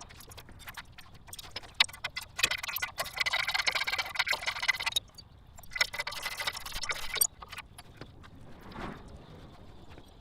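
Sped-up garage work on a car engine: rapid clicks and clatter of hand tools and metal parts, with two denser bursts of rattling near the middle.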